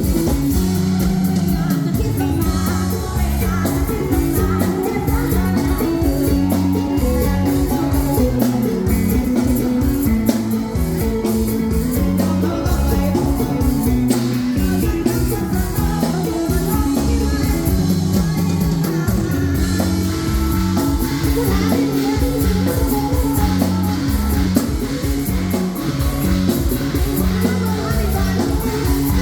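Live band music played loud through a PA: drum kit, electric guitar and bass with a steady beat, and singing.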